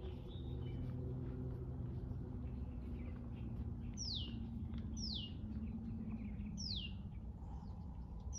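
A bird calling with a short, high whistle that slides down in pitch, four times from about halfway through, over a steady low background rumble.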